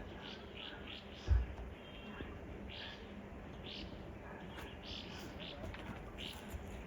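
Small birds chirping in short, high, repeated notes, several a second, over a faint steady background hiss. A single dull low thump about a second in.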